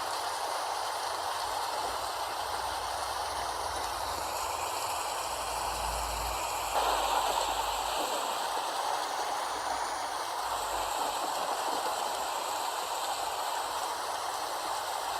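Steady rain: an even hiss of falling water, briefly louder about seven seconds in.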